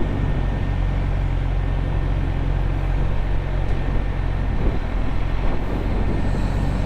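Suzuki GSX-R600's inline-four engine running steadily, with a low, even drone; the note wavers briefly about five seconds in.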